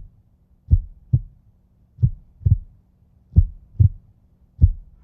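Heartbeat sound effect: slow, low double thumps (lub-dub), about one pair every 1.3 seconds, four pairs in all.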